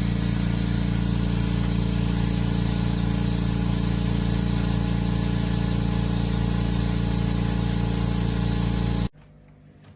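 APOLLOTECH 100 V 10-litre oil-less air compressor running with a steady motor hum and hiss. It stops abruptly about nine seconds in.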